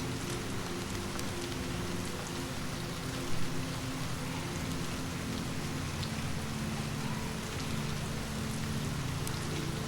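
Steady rain falling on a surface, with scattered faint drop ticks over a constant low rumble. A brief louder knock comes about three seconds in.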